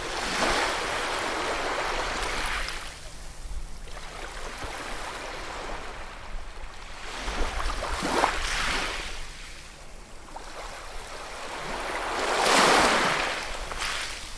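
Ocean waves breaking and washing on a shore, three surges in a row, the last the loudest, over a steady low rumble of surf.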